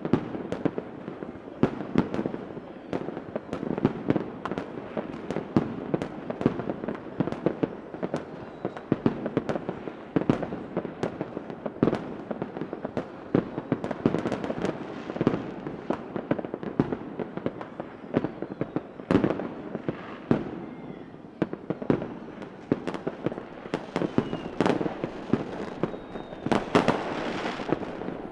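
Fireworks going off without a break: many sharp bangs and pops overlapping over a constant crackle, with a few faint whistles in the second half.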